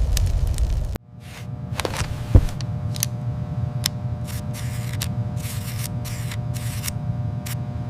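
A deep rumble that cuts off suddenly about a second in, then a steady low electrical hum with several steady tones, scattered clicks, short hisses and one sharp thump.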